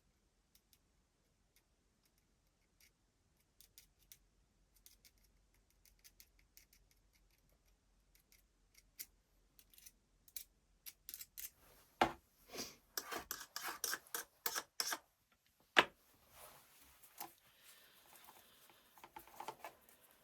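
Small hard parts of a cordless drill's gearbox clicking and scraping as they are handled: scattered light ticks at first, then a denser run of sharper clicks in the second half, one loud click, and a stretch of scraping near the end.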